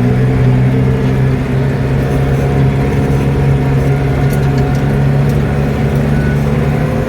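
Tractor engine running at a steady speed while driving along a road.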